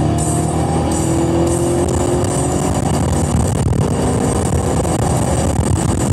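Chevrolet Camaro SS 1LE's 6.2-litre V8 accelerating hard in third gear, its pitch rising with the revs, then shifting up into fourth.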